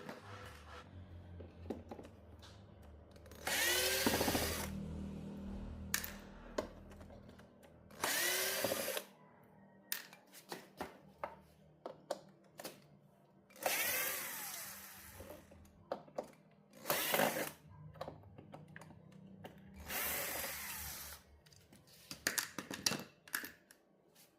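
Cordless electric screwdriver running in short bursts of about a second each, five times, with small clicks and taps in between.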